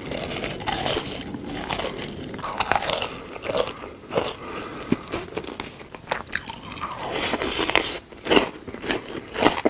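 Close-miked crunchy biting and chewing of food, an irregular string of crisp crunches.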